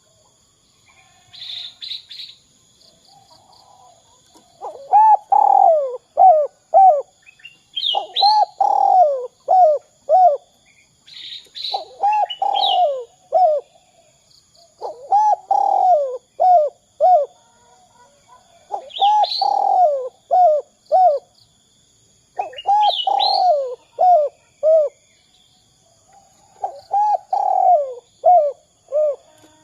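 Spotted dove (derkuku) cooing: repeated phrases about every four seconds, each a longer coo followed by three or four short quick notes. A small bird chirps high above it now and then.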